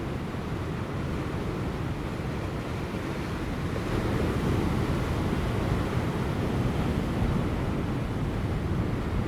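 Large ocean waves breaking on rocks as a continuous low surf rumble and wash, swelling a little louder about four seconds in, with light wind.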